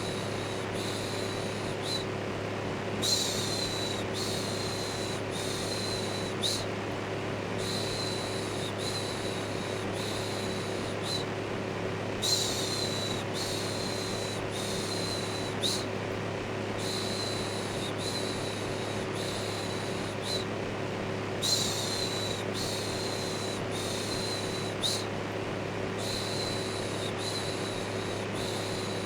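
Steady electric fan running with a low hum, overlaid by a repeated human "shhh" shushing: short hissy shushes in runs of three or four, each run a few seconds long with short pauses between, the first shush of some runs the loudest.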